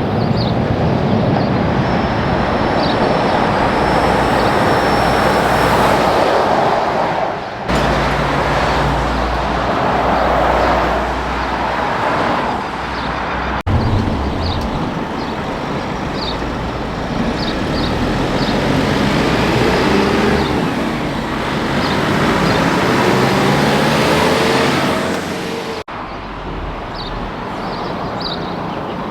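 Heavy trucks passing on a highway, engine and tyre noise with the engine pitch rising and falling as they go by. The sound breaks off abruptly and resumes three times, at edits between shots.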